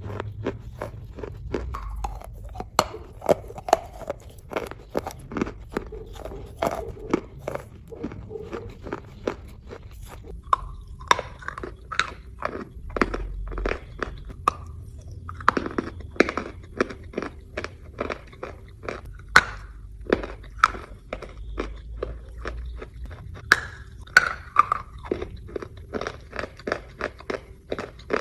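Chalk being bitten and chewed close to the microphone: continuous crisp crunching, several sharp cracks a second, with brief lulls between mouthfuls.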